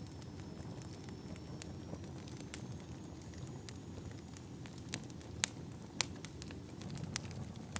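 Wood fire in a fireplace crackling: scattered sharp pops over a low, steady rumble of burning, with two louder pops a little past the middle.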